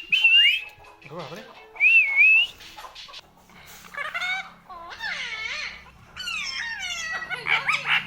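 Indian ringneck parakeet whistling twice, loud wavering whistles, then breaking into a run of high, squeaky chattering calls in the second half.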